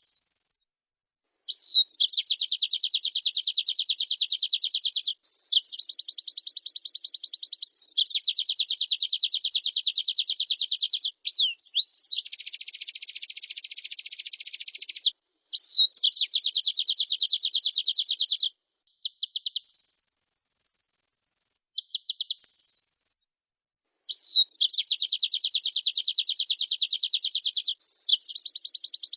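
White-eye (pleci) singing in long, fast trilled phrases of a few seconds each, with short breaks between them. Two brief, very high shrill bursts come about two-thirds of the way through.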